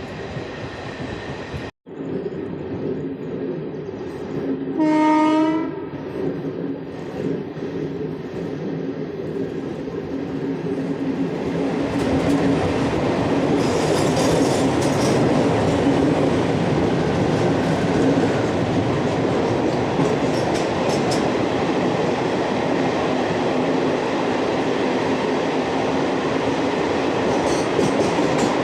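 Indian Railways express train: a single short horn blast about five seconds in, then steady train running noise that grows louder around ten seconds in and holds.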